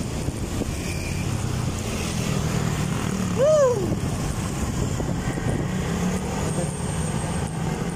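Steady road and wind noise from a moving bike, with a low vehicle hum underneath. About three and a half seconds in, a short pitched sound rises and falls once.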